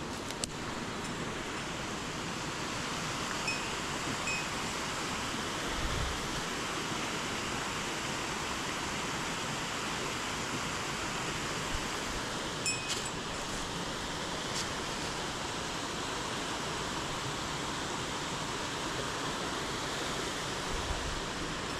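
Mountain headwater stream rushing over rocks: a steady, even rush of water, with a few faint clicks near the start and about halfway through.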